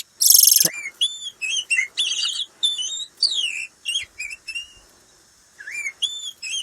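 Oriental magpie-robin song: a run of varied whistled phrases that glide up and down in pitch, repeating in short bursts with a brief pause a little past the middle. A loud harsh rasp opens it.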